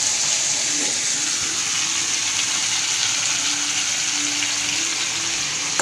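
Brinjal pieces sizzling in hot oil in a kadai: a steady frying hiss.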